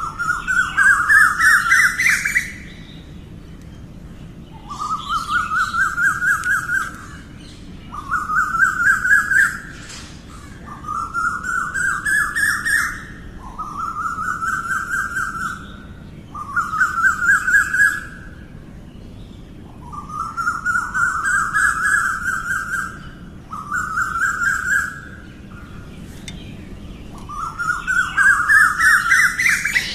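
Asian koel calling over and over: about nine phrases of roughly two seconds each, every one a fast run of notes that climbs in pitch, with short pauses in between.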